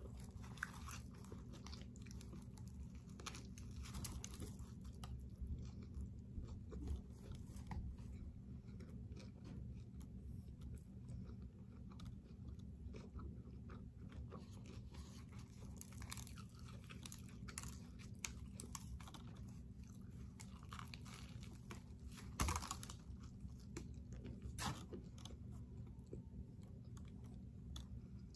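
Close-up chewing and biting of a sub sandwich, with scattered crunches and one sharper crunch about three-quarters of the way in, over a steady low hum.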